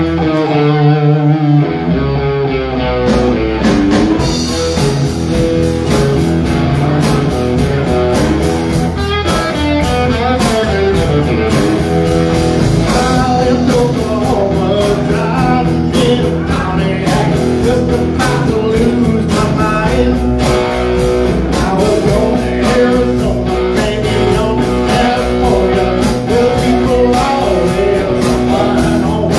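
Live band playing a rock number: a guitar opens alone, then drums and bass come in about two seconds in and the full band plays on.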